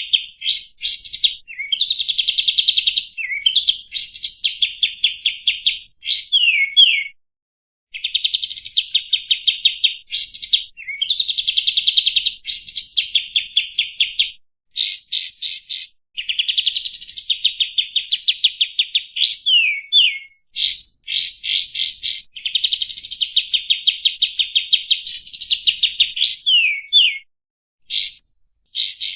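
Kapas tembak songbird singing repeated phrases: each opens with a fast, buzzy trill lasting a second or two, then ends in a few quick, sharp whistled notes that swoop up and down, with short pauses between phrases.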